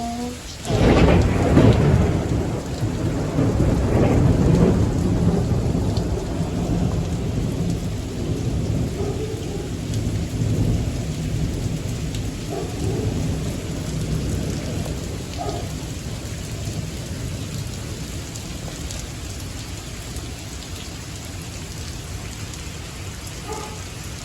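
A close thunderclap: a sharp crack about a second in, then a long low rumble that slowly dies away, over steady rain.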